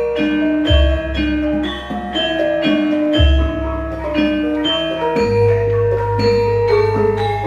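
Javanese gamelan ensemble playing a gending: bronze metallophones striking ringing notes in a steady rhythm, with deep gong strokes about a second in and again just past three seconds, and a long low gong tone humming on from about five seconds.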